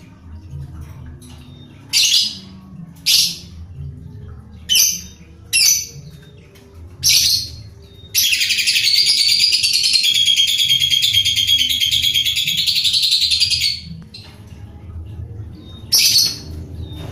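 Lovebird calling: a handful of short, shrill calls, then a long unbroken chattering trill of about five and a half seconds, and one more short call near the end.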